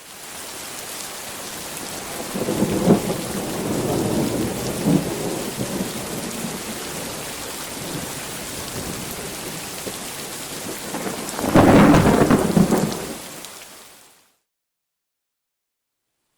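Steady rain with two rolls of thunder: one about two and a half seconds in, and a louder one about eleven and a half seconds in. The recording then cuts to silence near the end.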